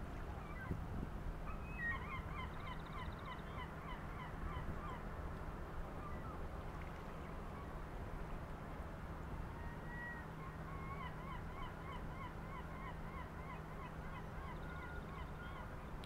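A bird calling in two runs of short, quickly repeated honking notes, a few every second. One run comes soon after the start and the other in the second half. Under the calls is a steady low rumble.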